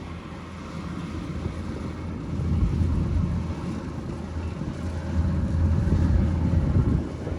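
Kubota DC-105X rice combine harvester running, a low steady engine drone that grows louder about two and a half seconds in and again from about five seconds on.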